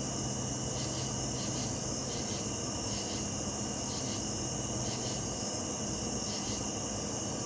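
Night chorus of crickets chirping steadily in a high, continuous trill with a regular pulsing beat, over a faint low steady hum.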